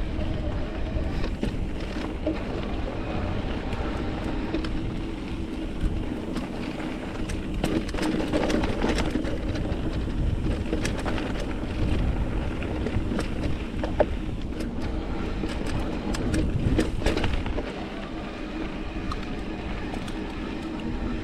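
Mountain bike riding over rock trail: a steady rumble of wind buffeting and tyres rolling, with frequent clicks and rattles from the bike. The low rumble eases off near the end.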